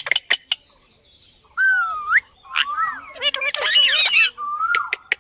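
Pet parrot calling: a few sharp clicks near the start, then whistled and squawking calls, one rising in pitch, a busy run of calls in the middle and a held whistle near the end.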